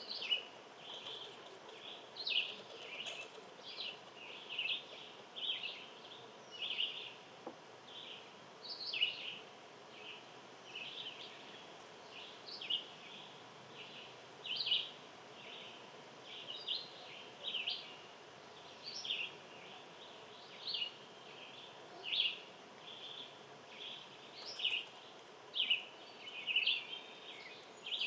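Small birds chirping, short high chirps repeated about one or two a second, uneven in spacing and shape.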